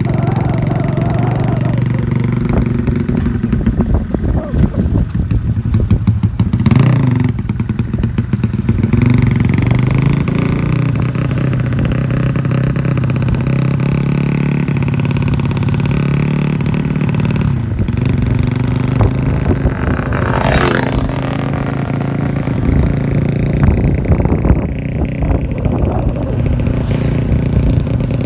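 Motorcycle engine, a Honda C70 with a 180cc engine, running steadily and revving, with its pitch rising and falling about 7 seconds in and again about 20 seconds in.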